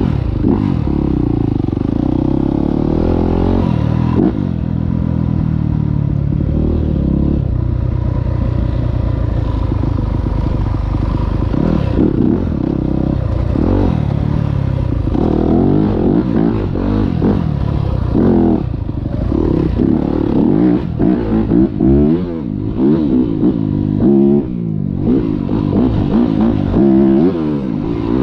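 Yamaha 450 four-stroke single-cylinder dirt bike engine being ridden, revving up and dropping back again and again as it works through the throttle and gears. About halfway through the revs turn choppier, with quicker blips and drops.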